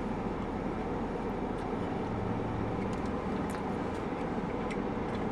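Steady low rumble of a running car, heard from inside the cabin, with a few faint small clicks.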